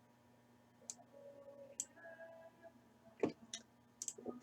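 A few sharp, separate computer mouse clicks, about a second apart, with a faint hum in between.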